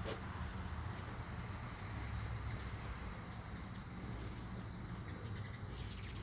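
Hummingbirds feeding, giving a few faint, high, short chip calls over a steady low hum, with a brief flutter of higher sound near the end.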